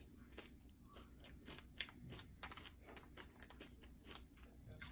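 A person chewing Doritos tortilla-chip nachos close to the microphone: irregular crisp crunches, one sharper crunch about two seconds in.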